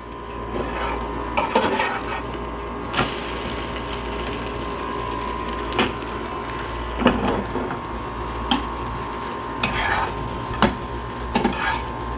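Paratha with beaten egg frying on a tawa with a steady sizzle. A spatula scrapes and taps against the pan every second or so as it is pressed and turned.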